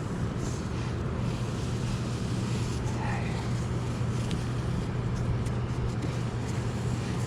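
Small motor running with a steady low hum over water and wind noise.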